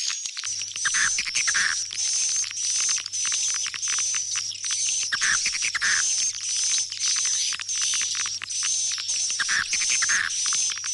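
Swiftlet calls played as a lure sound meant to draw swiftlets back into a swiftlet house: dense, rapid high chirping with a lower pair of calls coming back about every four seconds, repeating like a loop. A faint steady hum lies underneath.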